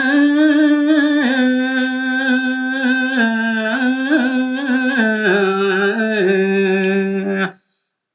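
A man singing a line of Balinese tembang in pupuh Sinom with no accompaniment, drawing out long held notes that bend slowly between pitches. The voice breaks off abruptly near the end.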